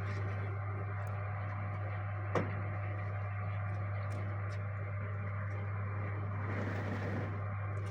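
Steady low hum of the awning's electric drive motor running, with one sharp click about two and a half seconds in.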